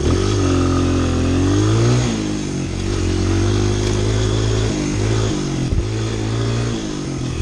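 Honda CRF100 dirt bike's single-cylinder four-stroke engine running under throttle; its pitch rises over the first two seconds, dips, then holds fairly steady with a couple of brief dips and falls off near the end.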